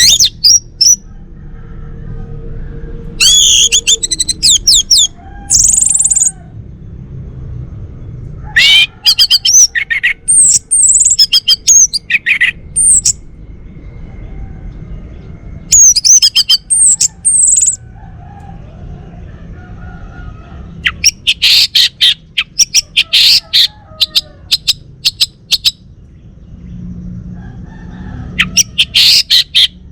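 Male orange-headed thrush singing: loud phrases of quick, sliding, whistled notes, each lasting about a second or two, separated by short pauses, with a run of rapid sharp chipping notes a little past the middle.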